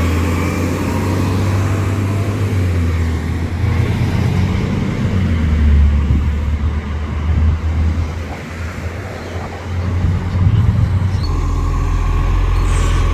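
Garbage truck's diesel engine running, rising and falling in level, then settling into a steady low drone near the end.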